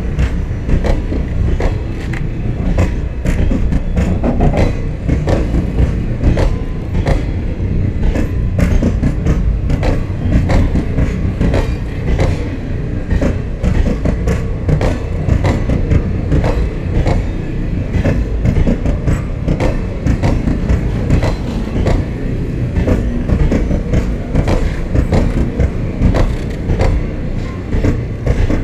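Passenger train coaches rolling past close by: a steady low rumble with rapid, irregular clicking and clatter of wheels over rail joints.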